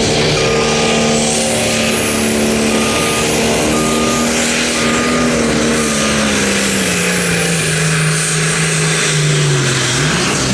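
Turbocharged diesel engine of a Light Pro Stock pulling tractor running hard under load with a high turbo whistle. The engine pitch holds high for about six seconds, then drops steadily as it lugs down, with a brief rise near the end. A short repeated beep sounds about six times in the first half.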